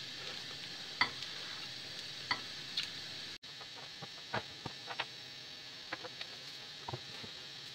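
Rolled pancakes sizzling steadily in a frying pan as they are re-fried to crisp up, with a scattering of light clicks and taps. The sound cuts out for an instant about halfway through.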